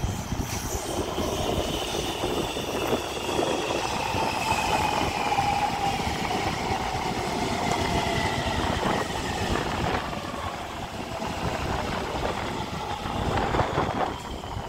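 Taipei Metro C321 electric multiple unit running on its Siemens GTO-VVVF traction drive. The inverter whines in several tones that slide slowly down in pitch over the rumble of the wheels on the rails, as the train slows.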